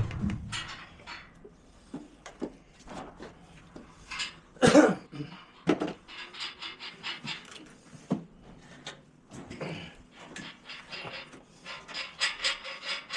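A dog panting in quick, rhythmic breaths, with a single loud clatter about five seconds in.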